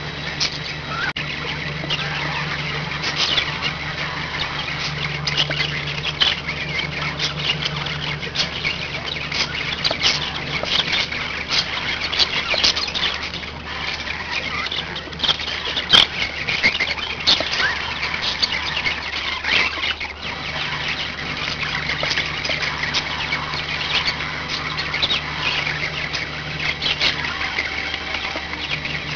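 Several pet budgerigars chattering and chirping continuously in quick, high, warbling calls. A low steady hum underneath stops for several seconds midway and then returns, and there is one sharp click about halfway through.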